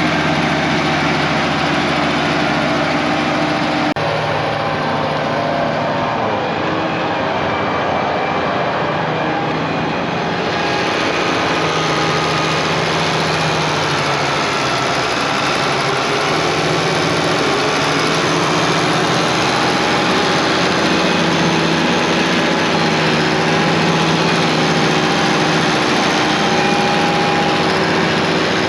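A diesel engine running steadily under light work, its pitch wavering a little, with abrupt changes in the sound about four and ten seconds in.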